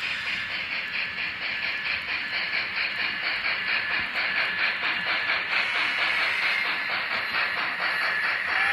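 Steam locomotive sound for the N scale Reading 2102 model: fast, even exhaust chuffing over a steady hiss. A whistle starts to sound right at the end.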